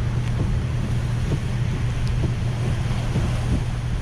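Steady low rumble of strong storm wind, with wind noise on the microphone: the gusty outer winds ahead of a hurricane.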